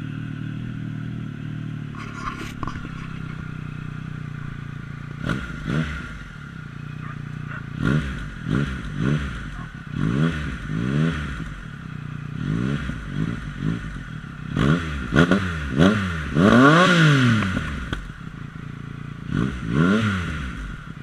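2014 Triumph Explorer 1200's three-cylinder engine, breathing through a Fuel Exhaust F1R aftermarket exhaust, idling just after start-up. From about five seconds in it is revved in short throttle blips, singly and in quick pairs and threes, with one longer rev about three quarters of the way through.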